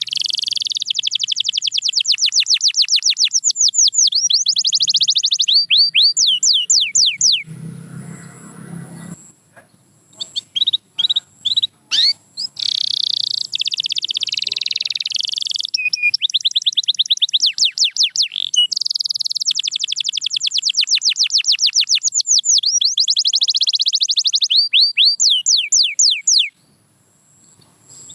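Domestic canary singing: long rolling trills of rapidly repeated high notes, some runs made of notes that sweep down in pitch. The song breaks off for about two seconds a little past a quarter of the way through, resumes with a few separate chirps, then trills again until it stops near the end.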